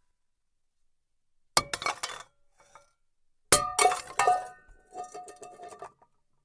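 Metal pots and pans clattering and knocking together in two bursts: a short one about a second and a half in, then a louder one about three and a half seconds in whose metal ringing fades over about two seconds.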